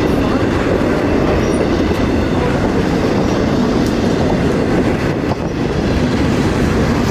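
A train passing close by: a loud, steady rumble of wheels on the rails.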